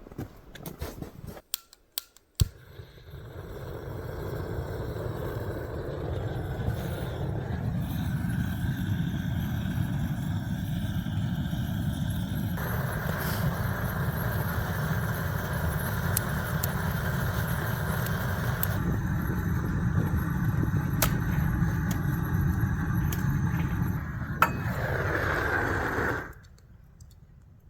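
Handheld propane tiger torch burning with a steady low rushing noise. It starts with a sharp click about two seconds in, shifts in tone a few times and cuts off near the end.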